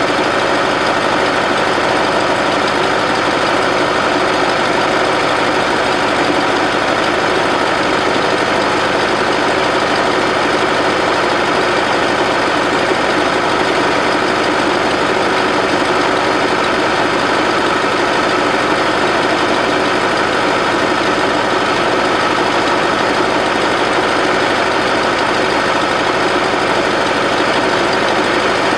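Bobcat 610 skid-steer loader's Wisconsin gasoline engine running steadily at a constant speed.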